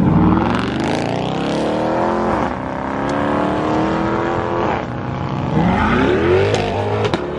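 Car engine accelerating hard, its pitch climbing and dropping sharply at upshifts about two and a half and five seconds in, then climbing again.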